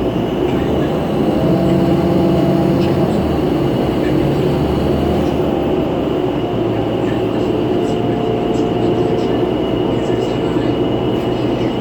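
Inside a 2011 New Flyer C40LF city bus under way: the CNG engine and drivetrain hum with pitched tones that shift up and down, over steady road rumble, with a steady high whine throughout.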